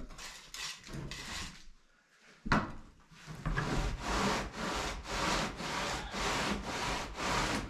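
A tool working freshly poured wet concrete in rhythmic back-and-forth rubbing strokes, about two a second, after a single sharp knock about two and a half seconds in.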